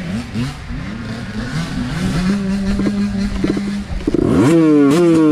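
Small mini bike engine revving up and down with the throttle, holding a steady pitch for a second or two midway, then rising sharply and getting louder near the end as it pulls away.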